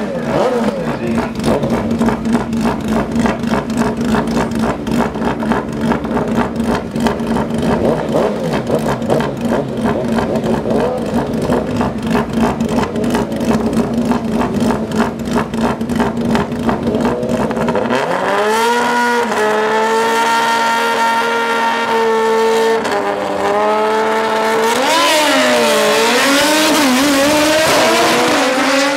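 Drag-racing superbike engines, loud throughout. For most of the stretch there is a fast, rough, pulsing engine rumble. About two-thirds in, a high-pitched revving engine takes over, holding a steady note and then dipping and rising in pitch several times.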